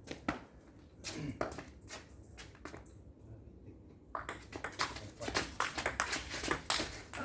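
Table-tennis ball clicking off the table and bats during a rally: a few hits early, a pause, then a quick run of sharp clicks over the last three seconds.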